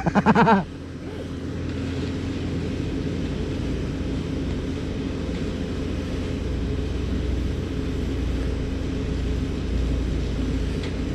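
Case tractor's diesel engine running steadily as the tractor backs up along the path, a low, even rumble.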